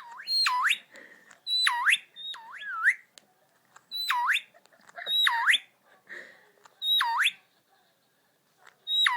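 Indian ringneck parakeet whistling: a string of about seven short whistles, each dipping steeply in pitch and swooping back up, with short pauses between them.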